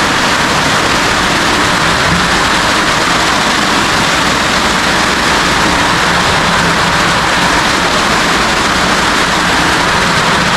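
Heavy rain falling steadily on a newly finished roof, a continuous loud hiss.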